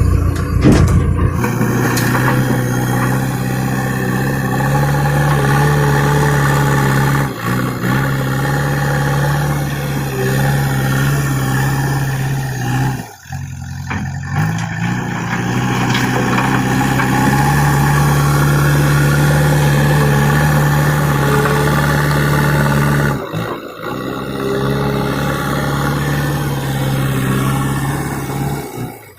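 Diesel engine of a JCB backhoe loader running steadily, its pitch rising and falling a little as it works. The sound drops out sharply a few times.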